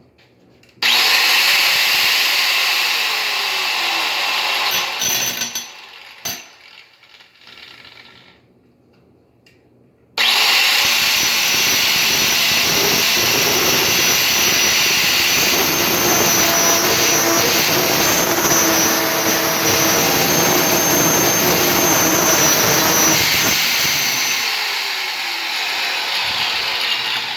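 Electric grinder spinning a 1 1/4-inch diamond core bit, grinding through a ceramic sink: a loud run of about four seconds, a pause, then a long steady cut of about fourteen seconds with a high whine, easing off near the end.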